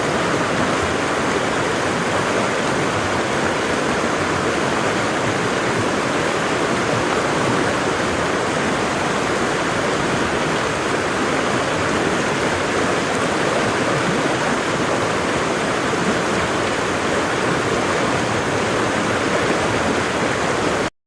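Waterfall: water falling and rushing in a steady, even roar that cuts off suddenly near the end.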